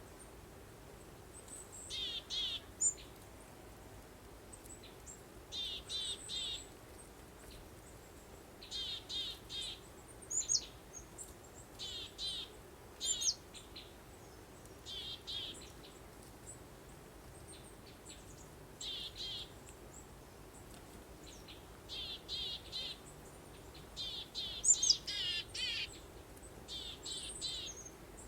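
Songbirds singing: short phrases of a few quick, high repeated notes every two or three seconds, with thinner, higher chirps in between. A faint steady hiss lies underneath.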